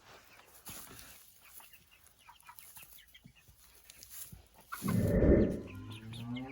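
Six-week-old meat chickens clucking softly in short scattered calls, with a loud rustling thump about five seconds in, followed by a longer pitched call near the end.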